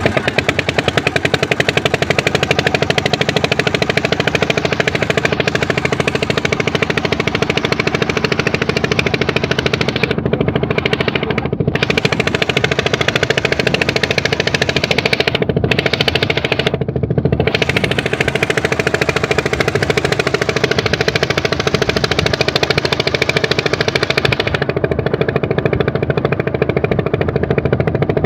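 A boat's engine running steadily close by, a fast, even chugging of rapid knocks that holds the same pace throughout.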